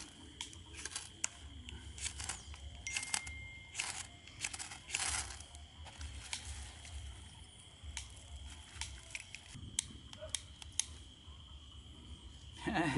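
Dry straw and small sticks crackling and rustling in scattered, irregular snaps as a small kindling fire catches.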